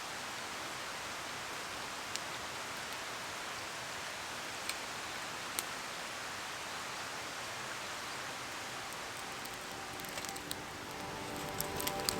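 Steady rain falling, with a few separate louder drops ticking close by. Music fades in near the end.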